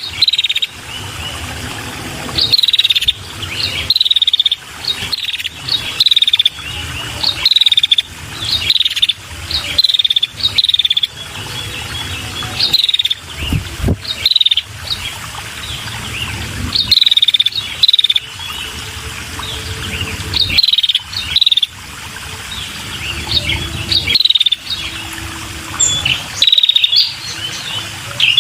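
Female red-headed prenjak calling: short, loud chirping notes that fall in pitch with a quick trill, repeated in rapid clusters about once a second. This is the female's call, used to lure male prenjak. Insects keep up a steady buzz underneath.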